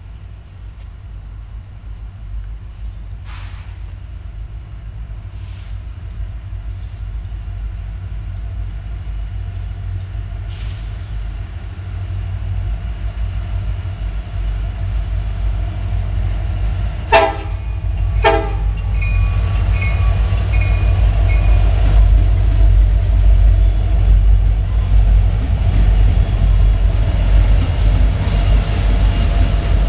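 Union Pacific diesel locomotives leading an intermodal train approach and pass: a low engine rumble that grows steadily louder, with two short horn blasts a little past halfway, then the heavier rumble and clatter of the train going by close.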